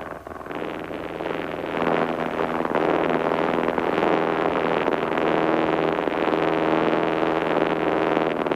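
The 1948 Cessna 140's four-cylinder air-cooled engine and propeller droning steadily inside the cabin during the climb. It grows louder over the first two seconds, then holds.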